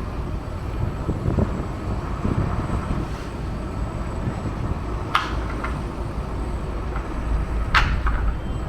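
Steady low rumble of the harbour side of a large ship, with two sharp clanks about two and a half seconds apart as the ship's gangway is worked loose from the quay.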